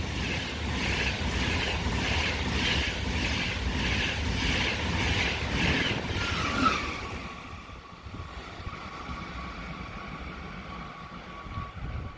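A train passing through a station: a heavy rumble with a regular clatter about twice a second. It fades about seven seconds in, leaving a steady high whine.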